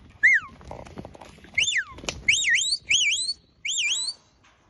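Shepherd's whistled commands to a working sheepdog: two falling whistles, then a run of quick rising-and-falling whistle notes. A sharp click sounds about two seconds in.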